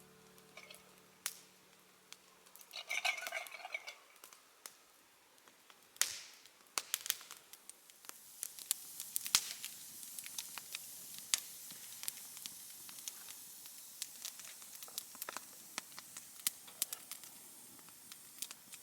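Wood campfire crackling, with irregular sharp pops and snaps over a soft hiss that grows fuller about eight seconds in.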